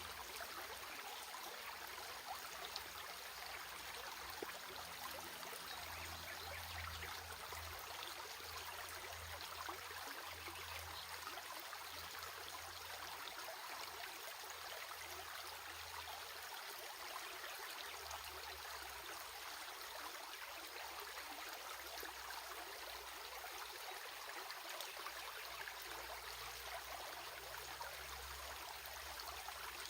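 Water of a stream running steadily, with an even rushing and babbling. A faint low rumble comes and goes beneath it.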